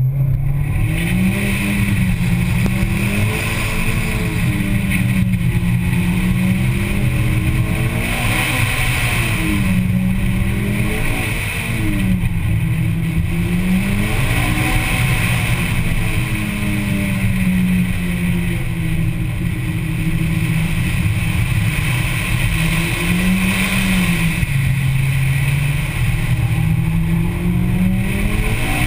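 Mitsubishi Lancer Evolution X's turbocharged 2.0-litre four-cylinder engine being driven hard on an autocross run, its pitch rising and falling over and over as it accelerates and backs off, with steady road and wind noise underneath.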